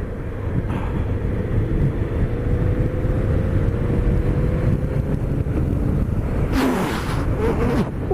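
Wind buffeting the microphone and a BMW K1200RS's inline-four engine running at road speed, with a faint steady whine in the first half. A short, louder rush comes near the end.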